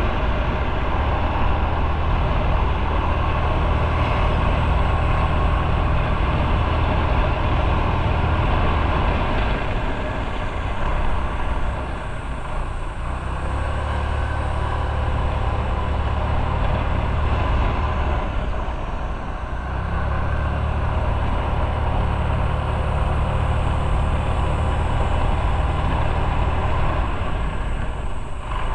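Motorcycle engine running under way with steady wind and road noise; the engine note drops away briefly twice, about twelve and about nineteen seconds in, as the throttle eases off.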